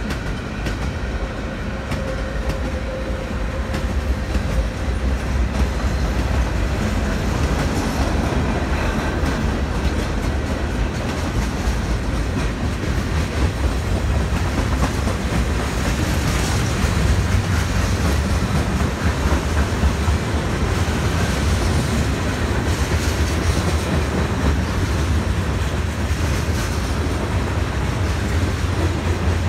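A freight train rolling past at track side: a steady rumble of steel wheels on rail with clickety-clack as the cars go by. A thin squealing tone is heard briefly in the first few seconds.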